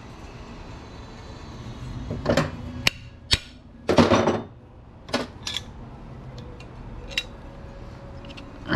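Metal parts of scrapped switchgear clanking and knocking as they are worked apart and handled: about half a dozen sharp knocks, the loudest a short rattling clank about four seconds in.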